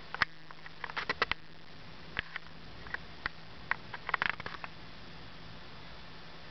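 Scattered raindrops tapping on a nearby hard surface: irregular sharp ticks, with quick clusters about a second in and again near four seconds, over a steady hiss and a faint low hum.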